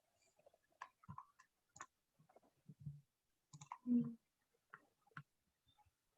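Faint, irregular clicking from computer input: mouse and keyboard clicks during desktop drawing work. There is one louder short low sound about four seconds in.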